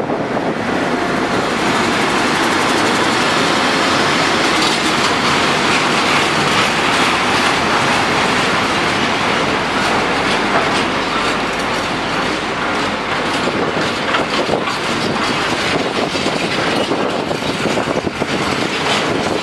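A DB Cargo Class 60 diesel locomotive passes close by, followed by a long rake of open box freight wagons rolling through. Their wheels clatter steadily over the rail joints, with some wheel squeal.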